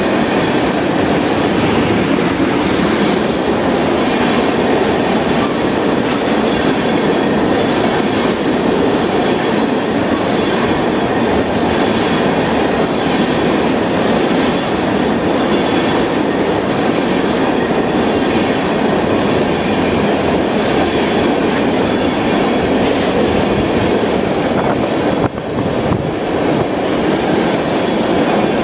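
Freight train of tank cars rolling steadily past at close range: the continuous rumble and clatter of steel wheels on the rails.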